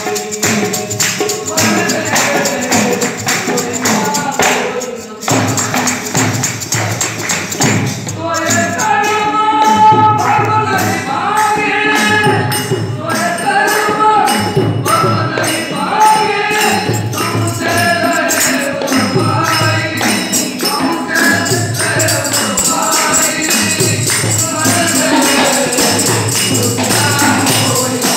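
Ektari bhajan music: a rhythmic jingling percussion beat, with a singing voice coming in about eight seconds in and dropping out a little past the twenty-second mark.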